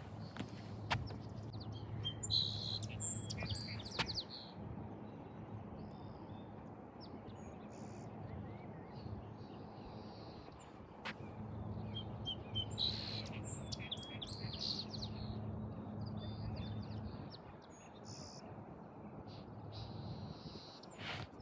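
Small birds chirping, with short calls scattered throughout, over a faint low hum that fades in and out.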